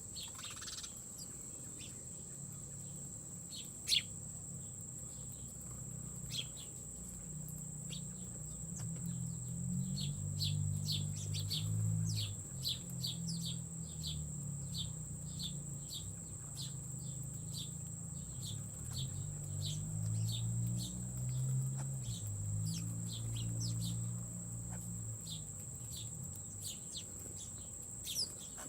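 Insects singing steadily in one continuous high buzz. Through the middle it is joined by short high chirps, repeated about two or three times a second, most likely a bird calling. Under it all a low drone swells and fades, loudest midway, with a single sharp click about four seconds in.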